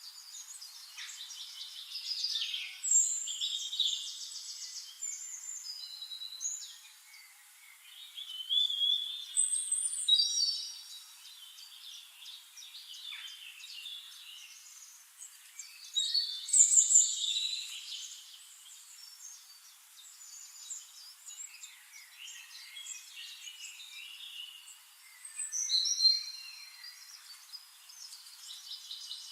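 A chorus of many forest birds singing and calling at once: overlapping high chirps, rapid trills and whistled phrases. Bursts of louder song come and go several times.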